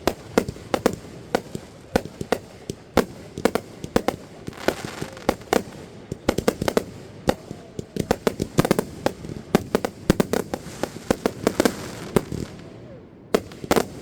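Fireworks going off in a rapid, irregular string of sharp bangs, often several close together, thinning out near the end to a last few bangs.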